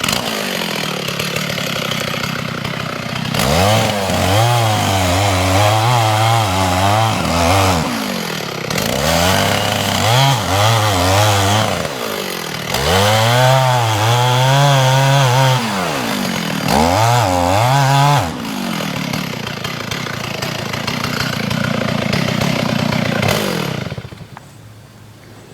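Gasoline chainsaw cutting into a dead hemlock trunk to make the face notch. The engine revs up and sags under load in four surges, runs more steadily for a few seconds, then drops away about a second and a half before the end.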